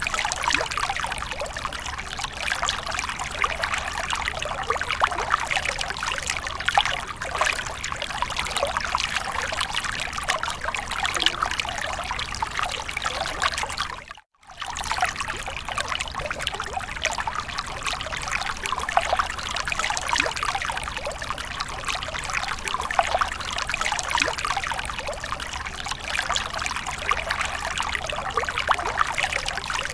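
Water splashing and trickling continuously in a dense patter of small splashes, cut by a sudden half-second gap about halfway through.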